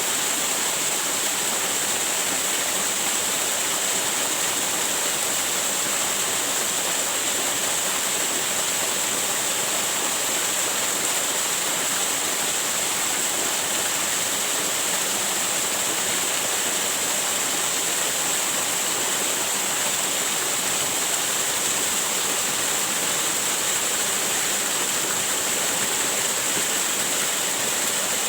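Waterfall rushing: a steady, unbroken roar of falling and splashing water, with most of its energy in a high hiss.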